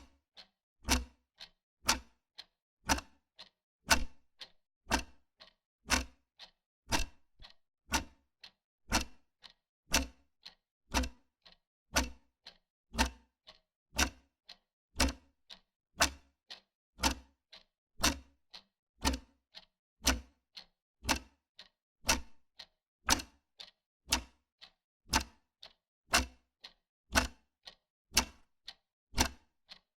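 Wall clock ticking steadily, about two ticks a second, with alternating louder and softer ticks in a tick-tock pattern.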